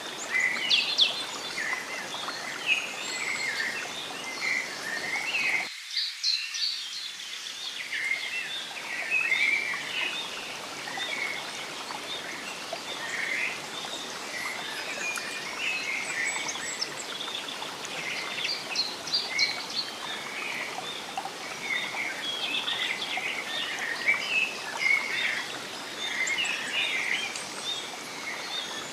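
Forest ambience: many small birds chirping and twittering over a steady rushing noise bed. The low rushing cuts out abruptly about six seconds in and fades back in over the next two seconds while the birdsong carries on.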